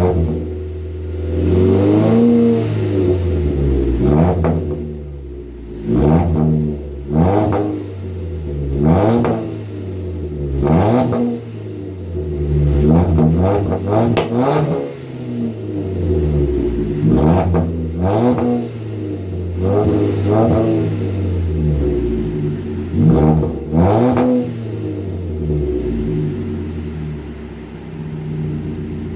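Ford Fusion 2.5-litre four-cylinder engine with its muffler deleted, blipped repeatedly: about a dozen short revs that rise and fall back toward idle, then settling to a steady idle over the last few seconds.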